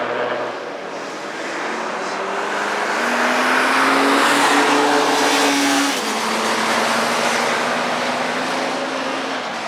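Motorcycle engine at speed on a race track, its note climbing steadily for several seconds and then dropping sharply in pitch about six seconds in.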